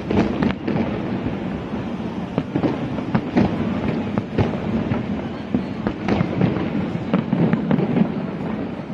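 Fireworks display: many sharp bangs and crackles, several a second, over a continuous low rumble of bursting shells.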